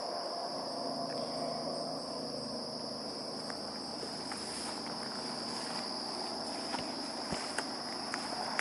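Chorus of insects such as crickets or katydids, a continuous high-pitched buzz holding steady throughout, with a few faint ticks near the end.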